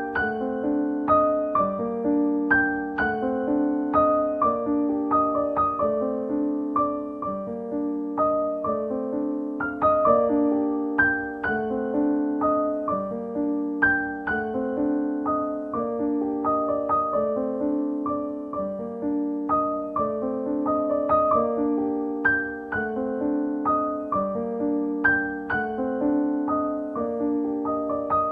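Background piano music: a gentle, repeating pattern of struck notes.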